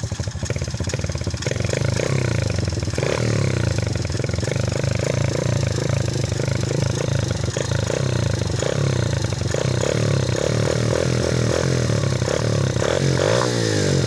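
Small dirt bike engine running just after being kick-started, with the throttle blipped so the pitch rises and falls. It gets louder about a second and a half in, and there is a pitch sweep near the end.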